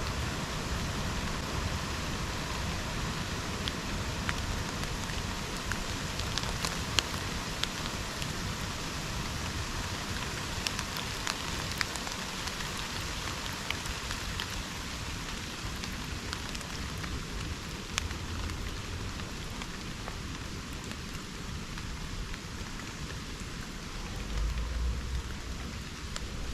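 Steady rain falling in subtropical rainforest, with scattered close drops ticking sharply. A low rumble comes in near the end.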